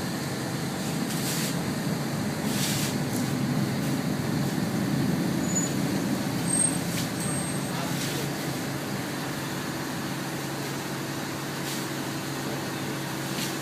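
A steady low mechanical drone with a few short clicks, swelling slightly midway and easing off again.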